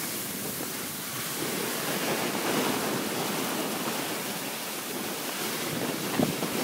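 Steady rushing hiss of a snow tube sliding down a packed snow track, mixed with wind on the microphone, with a brief knock about six seconds in.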